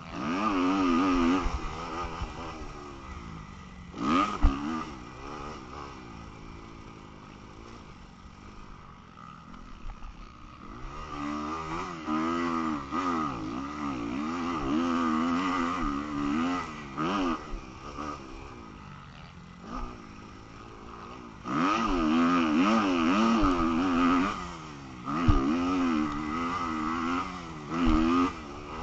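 250cc motocross bike engine revving hard and easing off in rapid swings, loud in spells with quieter stretches between. There is some clatter and a few sharp knocks.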